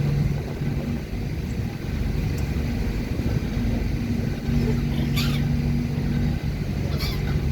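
A ship's engine runs with a steady low drone and hum. A seagull gives a short squawking call about five seconds in, and more calls come near the end.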